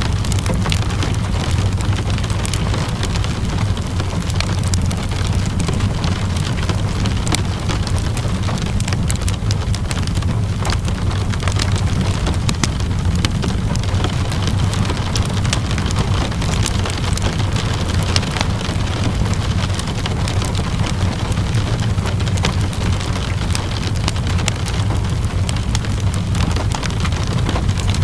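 Steady rain hissing and pattering, mixed with a fireplace's irregular crackles and pops over a constant low rumble.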